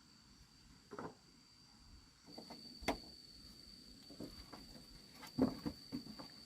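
Insects chirring with a steady high-pitched tone that grows stronger a little after two seconds in, with scattered knocks and thuds about one, three, four and five and a half seconds in.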